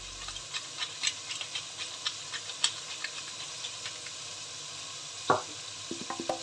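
Chicken, carrots and onion frying in oil in a stainless steel pot: a steady hiss with sharp, irregular crackles, mostly in the first three seconds, and a louder knock about five seconds in.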